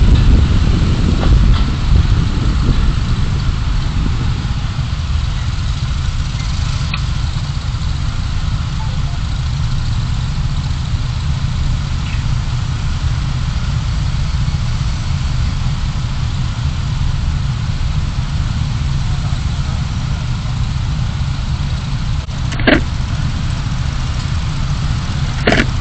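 Car driving, heard through a dashcam: a steady low rumble of engine and road noise, a little louder for the first few seconds before settling. Two brief clicks come near the end, about three seconds apart.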